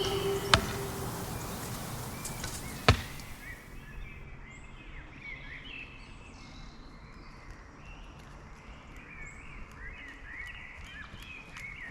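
Background music fading out, with two sharp impacts, one about half a second in and a louder one near three seconds. Then small birds chirping repeatedly, with a few high whistled notes.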